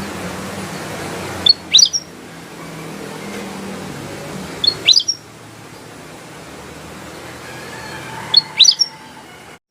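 A kutilang emas (a bulbul) giving three short phrases, each a quick cluster of whistled notes, about three seconds apart. Steady background noise with a low hum runs underneath.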